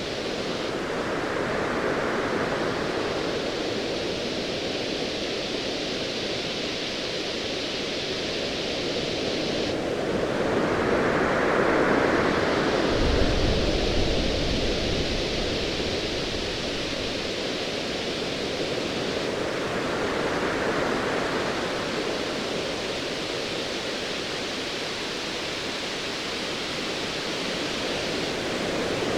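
Ocean waves rolling and washing in a steady wash of surf, swelling about every nine seconds. Distant thunder rumbles low about halfway through.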